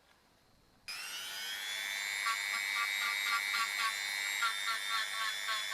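Small high-speed electric rotary tool (Dremel-type) starting abruptly, its whine rising slightly as it spins up, then running steadily with a regular pulsing as it works a part. It cuts off suddenly near the end.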